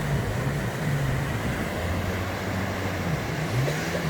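Jet ski engine running, its pitch rising and falling repeatedly as the throttle changes, over a steady hiss of wind and sea.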